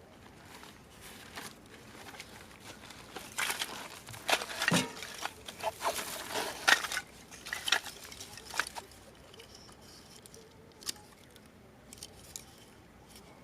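Irregular snapping and rustling of dry wood and twigs, densest in the middle, with a few single snaps near the end.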